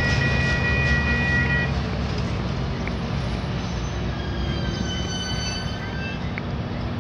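Commuter train rolling with a steady low rumble. A high steady wheel squeal sounds over it for the first second and a half or so, and fainter high squealing tones return around the middle.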